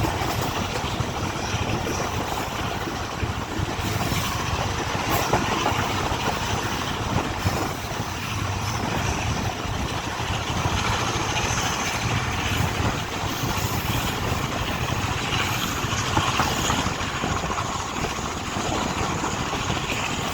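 Passenger train running at speed, heard from on board: a steady rumble of wheels on the rails with wind rushing past and a few faint clicks.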